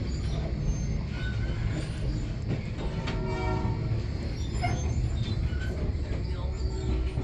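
A passenger train running, heard from aboard the car: a steady low rumble on the rails, with short pitched tones sounding over it now and then.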